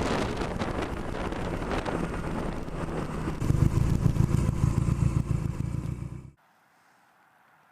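Motorcycle engine running with wind buffeting the microphone, the engine getting louder, with a low pulsing, about three and a half seconds in. The sound cuts off suddenly about six seconds in, leaving near silence.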